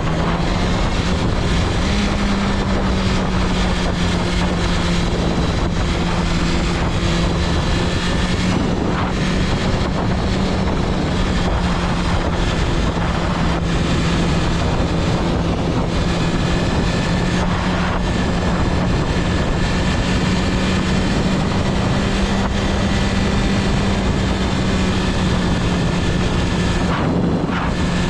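BMW S1000RR's liquid-cooled 999cc inline-four engine running at steady revs on the move, its note stepping up slightly about two seconds in and then holding, with wind rushing over the microphone.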